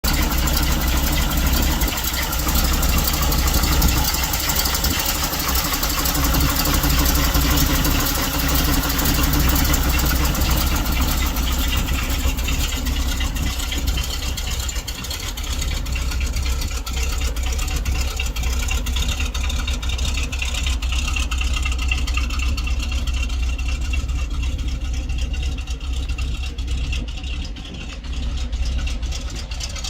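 1972 Chevrolet C70 dump truck's gasoline engine running at idle, a steady low rumble. There is more high-pitched noise over it in the first half, which settles after about fourteen seconds.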